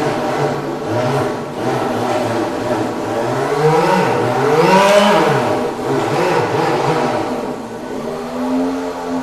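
Electric radio-controlled model car's sound unit playing a synthesized engine sound, revving up and down several times, with the biggest rev about five seconds in, then settling to a steadier, lower running tone near the end.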